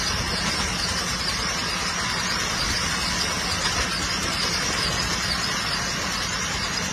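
Diesel train running along the track, heard from the front of the train: a steady engine drone under an even hiss of running noise.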